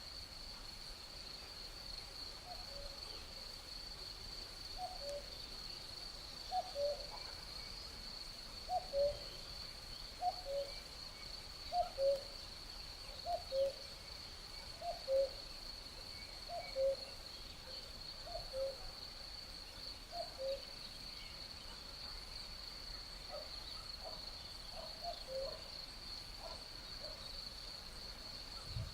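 A bird repeating a two-note call, a higher note dropping to a lower one, about every second and a half, some ten times, growing fainter near the end. Under it runs a steady high insect trill.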